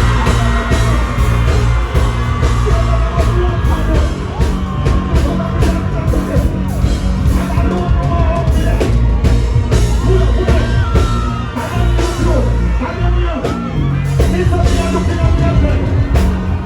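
Loud dancehall music with heavy bass through a concert sound system, with vocals and crowd yelling over it.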